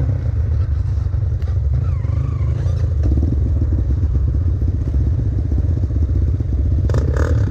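Trail motorcycle engine running steadily at idle, a rapid even putter with no revving. A short clatter about seven seconds in.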